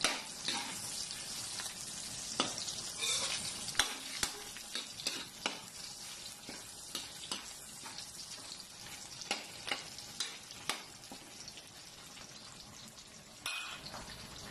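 Small chunks of fat sizzling in hot oil in a wok as they render out their oil, with a steady hiss and frequent sharp pops and crackles.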